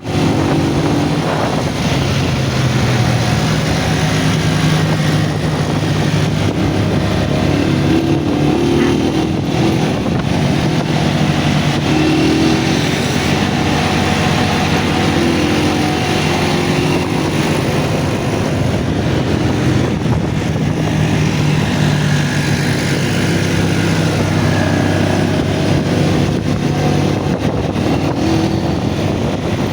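100cc engine of a shaft-drive three-wheeled motorcycle running at road speed on a test ride, its engine note shifting slowly up and down, with a steady rush of road and wind noise over it.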